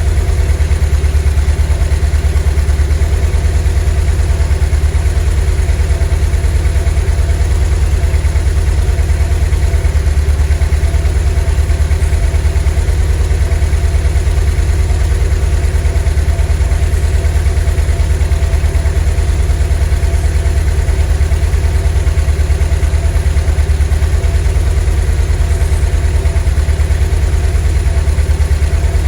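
Volkswagen T3 bus's 2.1-litre WBX water-cooled flat-four engine running steadily at an even speed, with a low, even pulse and no change in revs.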